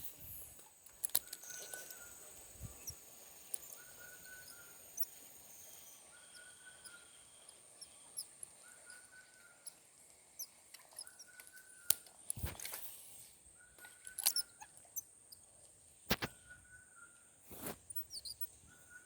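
Outdoor natural ambience: a steady high insect drone, with a short call repeated about once a second and a few sharp clicks.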